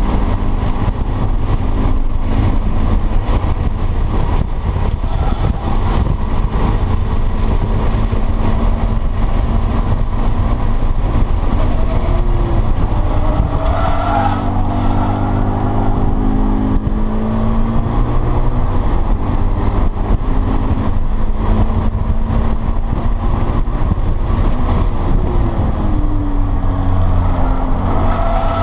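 In-cabin sound of a stock 2013 Subaru BRZ's 2.0-litre flat-four engine at track pace, its note rising and falling with throttle and gear changes over steady road and wind noise. The tyres squeal briefly in corners about halfway through and again near the end.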